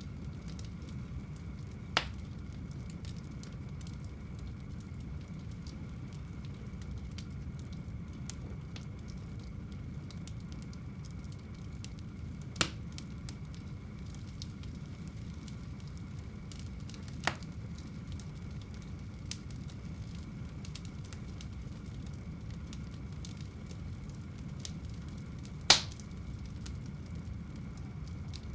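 Fire burning in a home fireplace: a steady low rumble of flames with faint ticking, broken by four sharp crackling pops, the loudest near the end.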